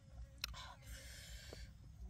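A person biting and chewing food: a sharp click about half a second in, then about a second of crunching.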